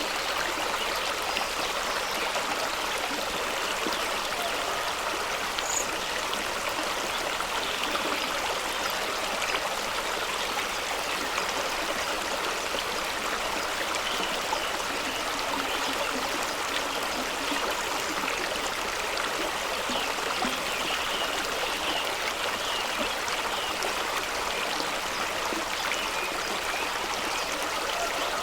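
Fast-flowing stream rushing and splashing over rocks at a small waterfall, a steady even rush of water with a bubbling, trickling texture.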